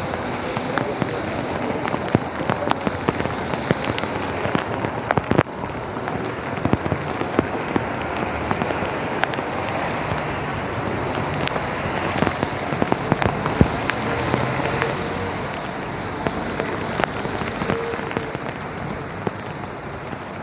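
Steady rain falling on wet pavement and street surfaces, with frequent sharp, irregular ticks of drops landing close by.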